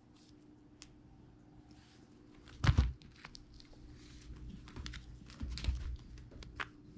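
Cats at play with a string toy: scattered scratchy clicks and rustles, a heavy thump about two and a half seconds in, and another burst of bumping and scuffling near six seconds.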